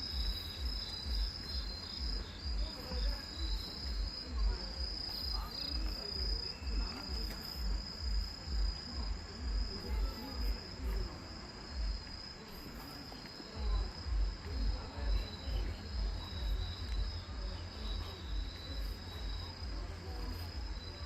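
Grass insects (crickets) trilling steadily in a high, continuous chorus. Under them runs a louder low thumping beat about twice a second, which fades briefly around the middle.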